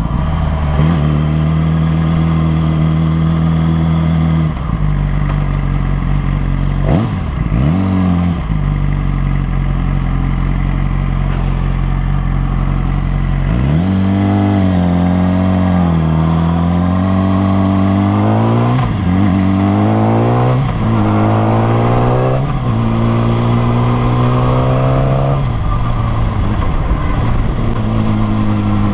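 Yamaha R6's inline-four engine running under way, holding steady revs for the first half with a few quick dips and rises, then accelerating several times in a row, its pitch climbing and dropping at each gear change.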